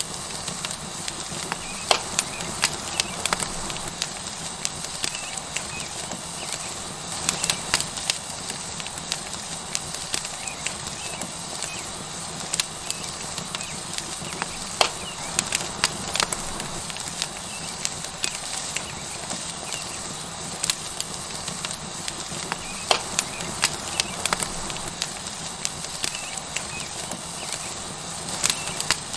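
Wood fire crackling, with irregular sharp pops, over the steady sizzle of a tomahawk steak searing on a hot rock.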